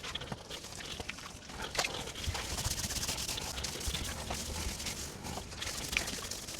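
Hands rubbing and working through a wet Cavalier King Charles spaniel's conditioned coat during its bath: steady rustling of wet fur with many small clicks and a few soft knocks.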